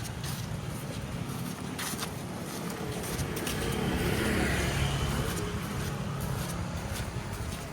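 A car driving past close by, its engine and tyres growing louder to a peak about halfway through and then fading.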